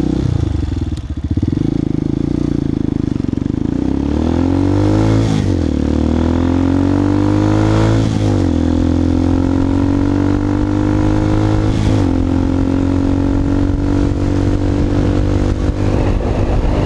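Hawk 250 motorcycle's single-cylinder four-stroke engine with a freshly fitted aftermarket exhaust, accelerating hard through the gears. Its pitch climbs, drops at gear changes about five and eight seconds in, then settles into a steady cruise. The exhaust note is throaty.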